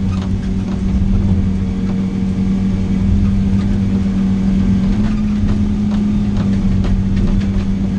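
Heavy diesel engine of logging equipment running steadily, heard from inside the cab, with a slight rise in pitch about five seconds in and scattered light clicks over it.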